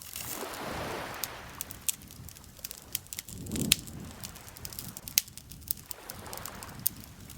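Campfire crackling, with sharp pops scattered throughout over soft, swelling rushes of noise. The loudest pop comes about three and a half seconds in, on top of a deeper surge.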